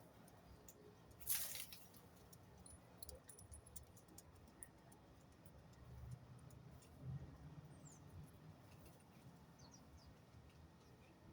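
Near silence with faint, short high chirps of small birds, scattered light clicks, and one brief rustle about a second in.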